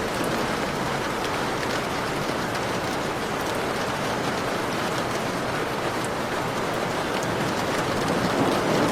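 Heavy rain falling steadily, a dense even hiss with individual drops ticking through it, swelling a little louder near the end.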